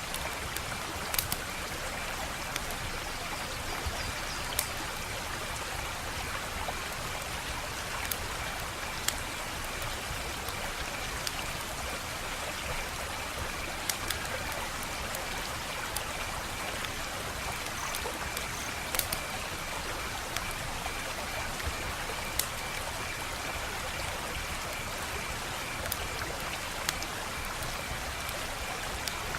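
Wood fire burning with a steady hiss and irregular sharp crackles and pops, one every second or two. A faint, steady high trill runs underneath.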